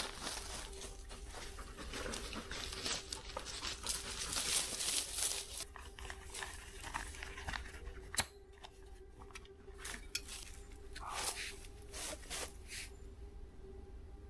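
Rustling, crinkling and clinking of camping food packaging and cooking gear being handled: dense for the first several seconds, then sparser, with a sharp click about eight seconds in.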